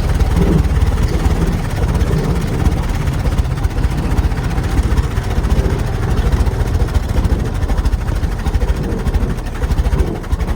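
Vintage hot rod's engine running under way, heard from the open passenger seat as a fast, steady low pulsing with a noisy rush above it.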